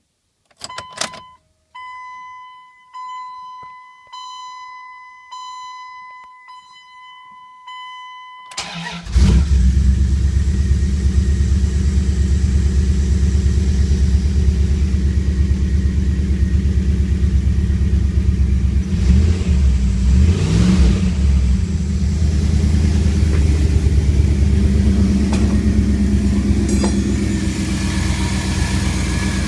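A dashboard warning chime dings about once a second, then the 2001 Dodge Ram's 5.9-litre engine cranks briefly, catches about nine seconds in and settles into a steady idle.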